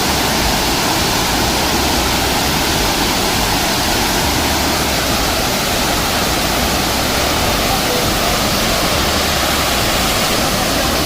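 Steady, loud rush of a waterfall's falling water, an even unbroken roar.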